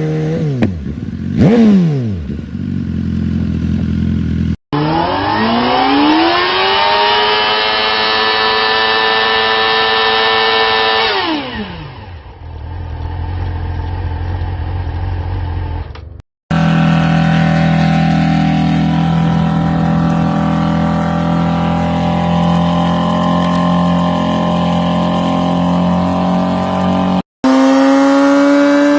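Motorcycle engines revving during burnouts, in several short clips cut one after another. In one clip the engine climbs in pitch, holds high and steady for about four seconds, then drops back; in another it runs steady and loud for about eleven seconds.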